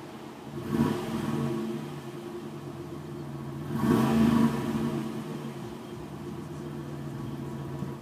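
2008 Chevrolet Impala SS's 5.3-litre V8 running on its stock exhaust, revved twice, about a second in and again about four seconds in, each time settling back to idle.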